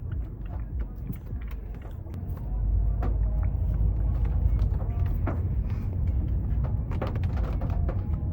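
Low rumble of a Mazda 3 driving on wet roads, heard from inside the cabin, growing louder about two and a half seconds in as the car picks up speed, with scattered light ticks over it.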